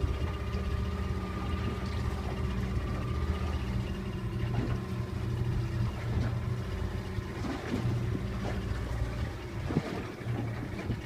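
Glass-bottom boat's engine running with a steady low hum.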